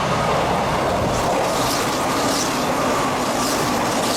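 Hanshin Main Line electric train passing through the station at speed without stopping: a loud, steady rush of wheels and running gear.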